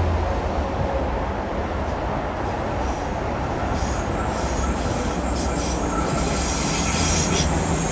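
Sydney Trains double-deck electric suburban train approaching round a curve, its wheel and rail noise building from about halfway through, with clicks and a thin high squeal from the wheels.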